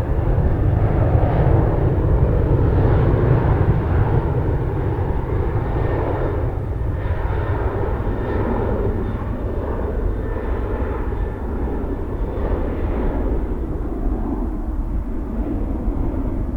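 Boeing 737 jet engines at take-off thrust: a loud, steady rumble, strongest over the first few seconds, then easing slightly as the airliner moves away.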